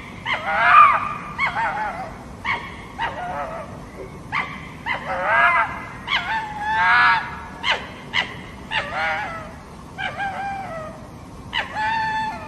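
An animal calling repeatedly: about ten short calls that bend in pitch, roughly one a second, with sharp clicks between them.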